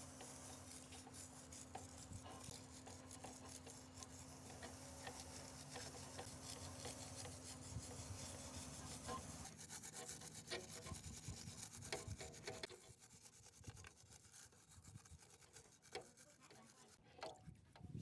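Steady rubbing and scraping on an engine part, over a low hum that stops about halfway. It then thins out into quieter, scattered scrapes and taps near the end.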